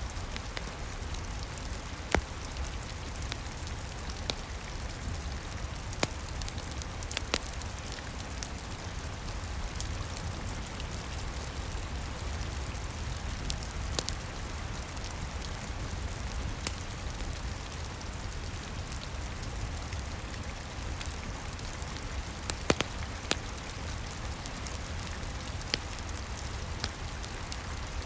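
Steady rain with a low rumble underneath, and a fireplace crackling with scattered sharp pops at irregular moments.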